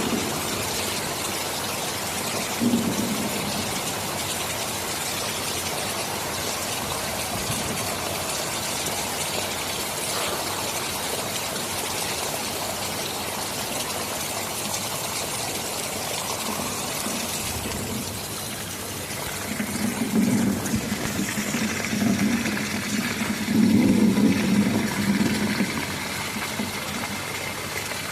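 Steady heavy rain hiss with low rumbles of thunder: a short rumble about three seconds in, and a longer, louder rolling rumble about two-thirds of the way through that lasts several seconds.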